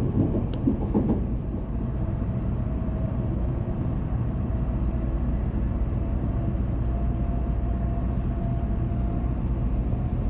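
Steady low rumble of a Shinkansen train running, heard from inside the passenger cabin, with a faint steady whine through the middle and a few soft knocks near the start.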